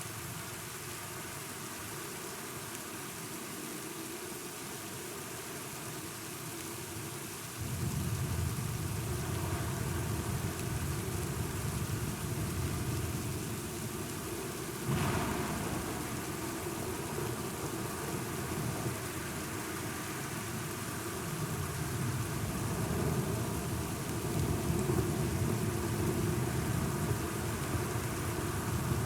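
Steady rain falling, with thunder: a low rumble starts suddenly about a quarter of the way in, a sharper thunderclap comes near the middle, and the rumbling carries on and swells again near the end.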